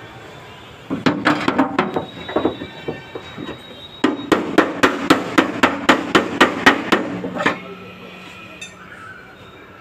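Hammer blows on a car's sheet-metal body panel during dent repair: a loose run of taps, then a steady run of about four strikes a second for some three seconds.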